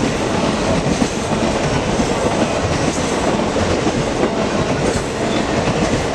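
Norfolk Southern Triple Crown RoadRailer freight train, highway trailers riding on rail bogies, rolling past: a steady, unbroken noise of steel wheels on the rails.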